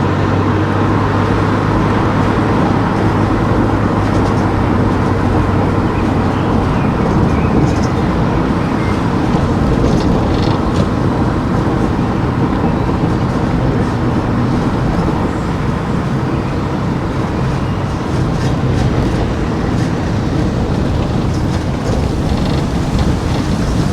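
A car driving through town streets: steady engine and road noise.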